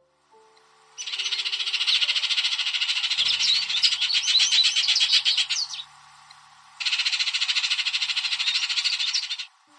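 A small bird singing a rapid, pulsed trill in two long bursts: one of about five seconds starting a second in, then another of about three seconds.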